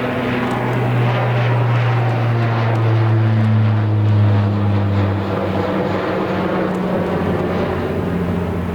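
Airliner passing low overhead close to the runway end. Loud, steady engine noise sets in just before and holds, and its engine tone drops in pitch about halfway through as the aircraft goes past.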